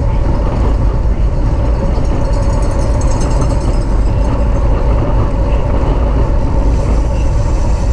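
Steady wind rush and road rumble on a camera riding with a racing bicycle at speed in a criterium bunch, loud and heaviest in the low end.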